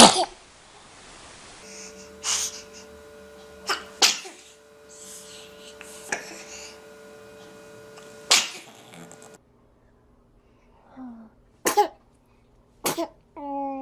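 Babies sneezing: a string of short, sharp sneezes, about eight in all, from several different clips.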